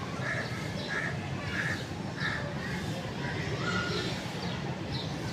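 Birds calling over and over, short calls roughly every half second, over a steady low background noise.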